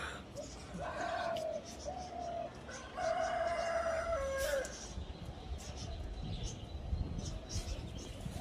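A rooster crowing once: two short notes, then a long held note that drops in pitch at the end.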